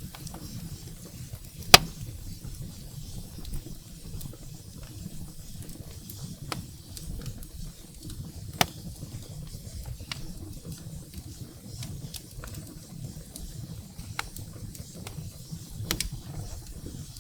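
Wood fire burning in a fireplace: a steady low rumble of flames with scattered sharp crackles and pops from the burning firewood, the loudest pop about two seconds in.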